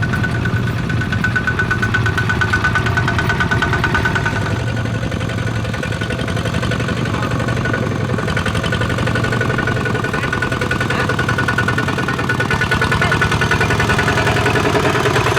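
Farm tractor engine running steadily with a fast, even chugging and a steady high tone above it.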